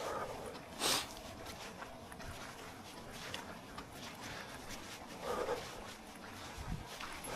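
A runner's footsteps on a dirt trail, a steady run of light strikes. About a second in comes one sharp, hissing burst, and a short, lower sound follows about five seconds in.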